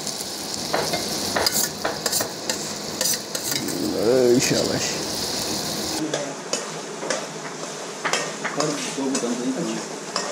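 Tomatoes, onions and ginger frying in oil in an aluminium karahi, sizzling steadily while a steel ladle stirs and scrapes, clicking against the pan again and again. The sizzle is softer after about six seconds.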